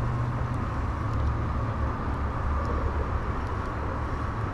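Steady outdoor background noise: an even low rumble under a light hiss.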